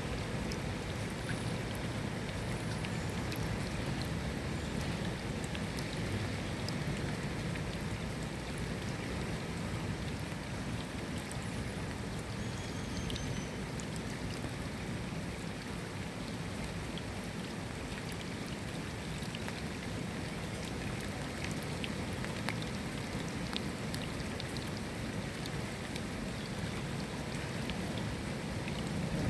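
Steady rain falling: an even hiss with many scattered individual drops ticking through it.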